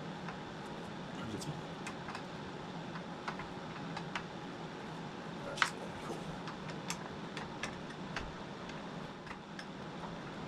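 Scattered light clicks and taps of hand tools working on a transmission line, with one sharper metallic tap about five and a half seconds in, over the steady hum of small space heaters.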